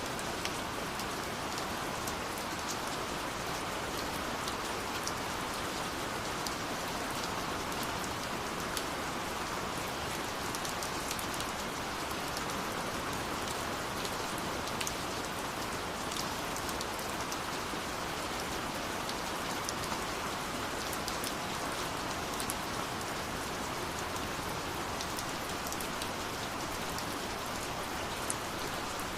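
Steady rush of a waterfall, with the scattered sharp crackles of a burning wood fire over it.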